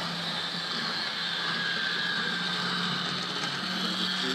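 Heljan model diesel locomotive's electric motor running as it travels along the track: a steady low hum with a faint higher whine that dips slightly in pitch.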